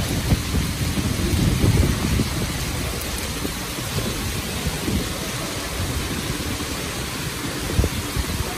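Heavy rain pouring down in a thunderstorm, a steady hiss under a low, gusting rumble that swells and fades.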